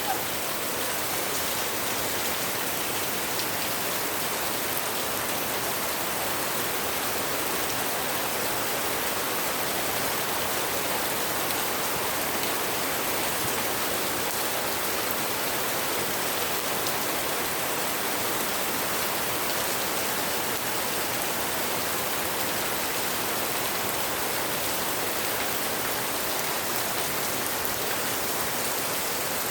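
Heavy rain falling steadily, an even, unbroken patter of drops on surfaces.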